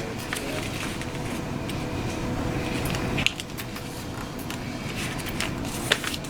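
Sheet of printer paper being handled and folded, with scattered soft rustles and crease clicks, two sharper ones about three and six seconds in, over a steady background hum.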